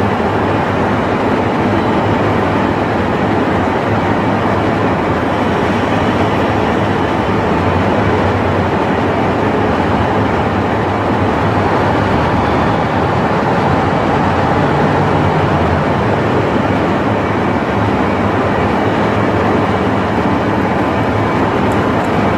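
Steady rumble of a train with a low hum underneath, unbroken and unchanging throughout.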